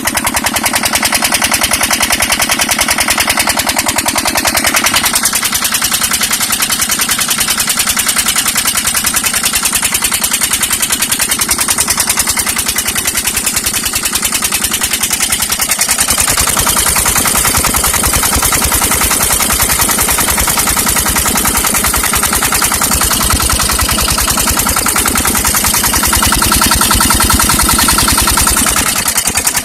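Kirloskar 10 hp diesel engine running steadily, its firing a rapid, even knocking beat. The tone of the beat changes a little about five seconds in and again about halfway through.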